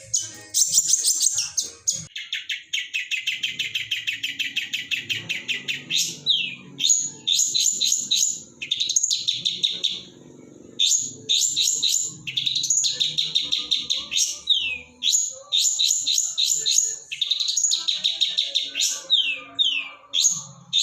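Long-tailed shrike (cendet) singing a fast, varied song laced with imitated notes of other birds. A rapid run of repeated chirps starts about two seconds in and lasts some four seconds, followed by bursts of high chirps and downward-sliding whistles with short pauses between them.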